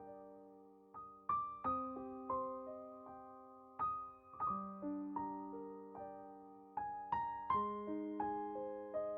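Slow, gentle solo piano music: single struck notes and broken chords that ring on and fade, a new phrase starting about every second or so.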